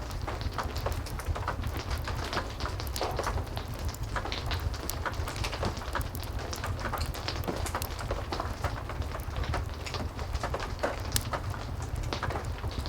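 Heavy rain falling steadily with a wood fire crackling, many sharp irregular pops and taps over a constant low rumble.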